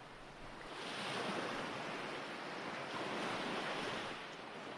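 Ocean waves washing in as a steady rush of surf, swelling up about a second in and again around three seconds, then easing off near the end.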